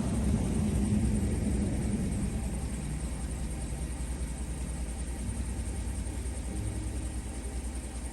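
Deep, muffled bass rumble from the Dodge Caliber's subwoofer system playing during a sound test, heard mostly as low-end pulsing with little of the music above it.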